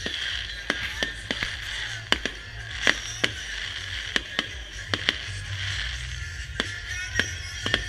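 Fireworks display going off: a rapid, irregular run of sharp bangs, two or three a second, over a steady crackling hiss and low rumble.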